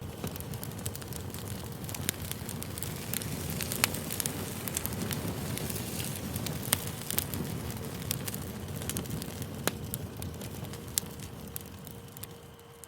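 Campfire burning: a steady low rush of flames with sharp pops and crackles scattered throughout, the loudest pop about four seconds in. It dies down slightly near the end.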